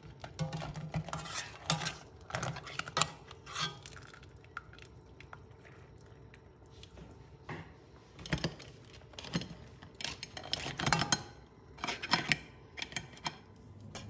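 Metal kitchen tongs clinking and clattering against a stainless steel pot and a ceramic plate as boiled lobsters are lifted out. The clatter comes in two spells, with a quieter lull in the middle.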